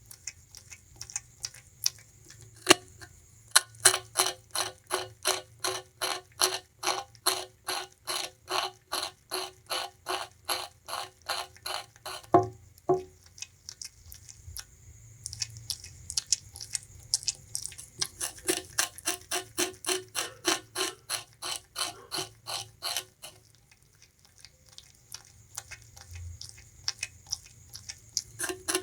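Bamboo rat gnawing and chewing sugarcane, a quick run of crisp crunches about three a second. The crunching pauses briefly in the middle and is fainter and sparser near the start and end.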